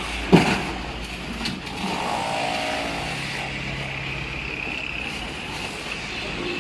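Steady workshop background noise with a sharp knock about a third of a second in and a lighter click about a second later, as parts are handled during a transmission teardown.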